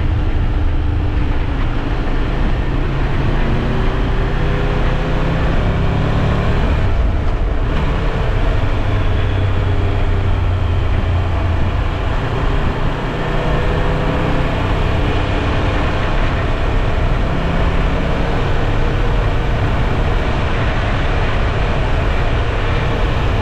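Triumph Tiger 1200 Rally Pro's three-cylinder engine running on the move under heavy wind rush, its pitch rising and falling several times with the throttle.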